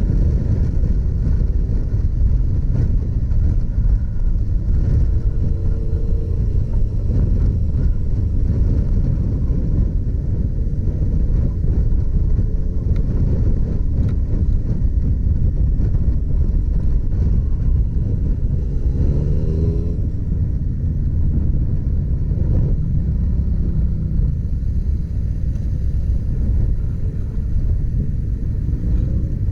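Motorcycle being ridden: a steady low rumble of engine and wind. A few times the engine's pitch sweeps up and down as it speeds up and eases off.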